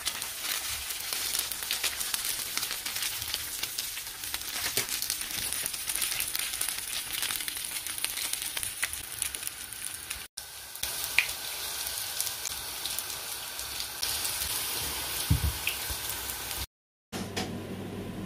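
Samosas shallow-frying in oil in a grill pan: a steady crackling sizzle with scattered sharper pops. It drops out for an instant about ten seconds in and stops shortly before the end.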